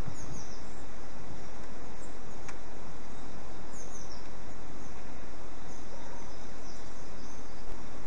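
Steady outdoor background hiss, with faint high chirps of small birds about half a second in, again around four seconds in and around six to seven seconds. There is a soft tick near the end.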